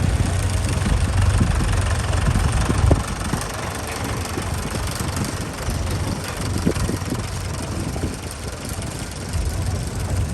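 An engine idling with a steady low hum that drops away about three seconds in, leaving a fainter running noise with a few light knocks.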